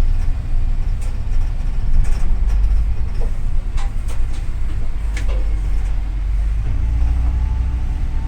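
Double-decker city bus in motion, heard from inside: a steady low engine and road rumble with a few short rattles and clicks.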